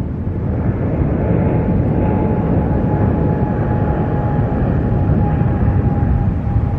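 Jet airliner engine noise: a steady rumble with a thin whine.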